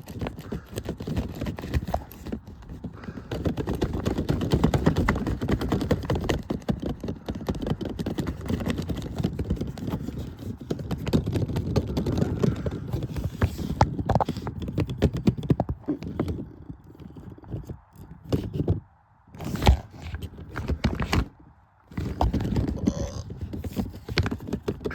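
Taylormade washing machine spinning a load of towels, rattling and knocking rapidly as the drum runs off balance and the machine jumps. After about 16 s the rattle breaks up into a few separate, louder knocks.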